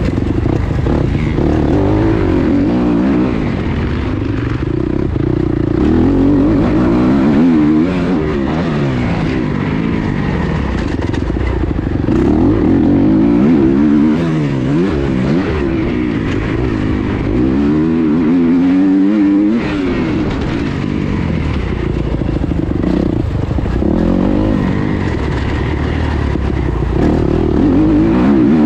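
Motocross bike engine revving hard and easing off again and again, its pitch climbing and dropping every second or two as the rider accelerates and shifts around the track.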